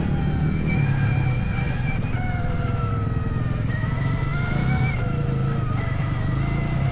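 Stark Varg electric motocross bike's motor whining, its pitch rising and falling with the throttle, over a steady low rumble.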